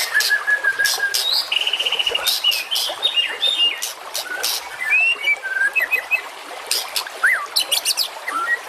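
White-rumped shama song: a busy run of sharp, high, clicking notes mixed with short rising and falling whistles, with a fast buzzy trill about two seconds in.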